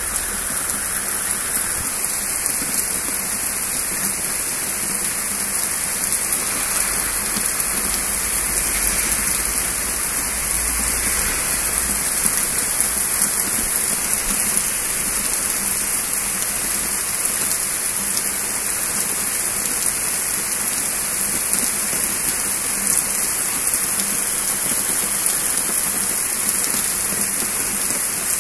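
Rain falling steadily, an even hiss of drops striking surfaces that neither builds nor fades.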